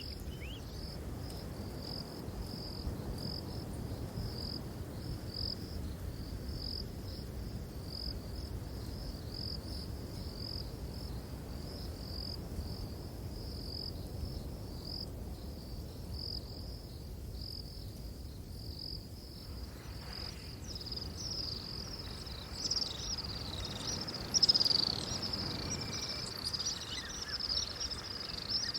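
Insects chirping in a steady, regular rhythm of short high pulses over a low rumble. Near the end, louder, busier chirping joins in.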